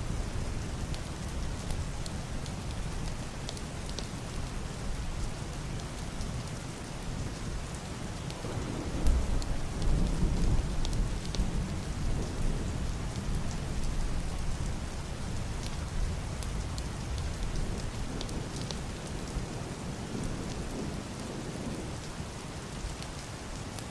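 Heavy rain pattering steadily on a roof and window glass, with single drops ticking sharply here and there. A low, muffled roll of distant thunder swells about nine seconds in and fades over a few seconds.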